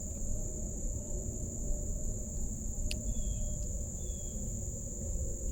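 Steady high-pitched chorus of insects over a low outdoor rumble, with a single click about three seconds in and two faint short chirps just after it.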